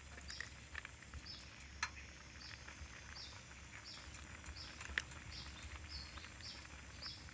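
A bird calling a short, high chirp over and over, evenly about every two-thirds of a second, with a couple of sharp clicks about two and five seconds in.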